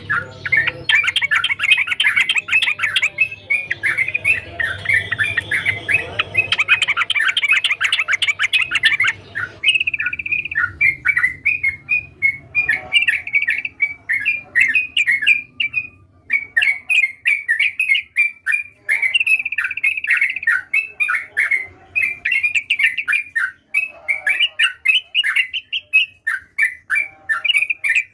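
Yellow-vented bulbul (trucukan) singing continuously: rapid, bubbly chattering phrases of quick chirping notes, one after another with short gaps, denser and overlapping for the first third.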